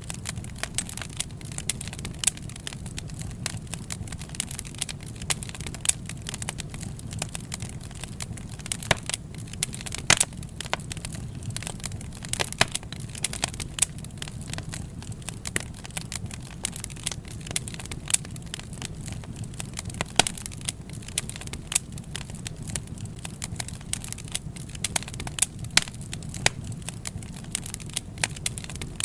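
Wood fire burning, crackling and popping steadily over a low rumble of the flames, with a few louder pops scattered through.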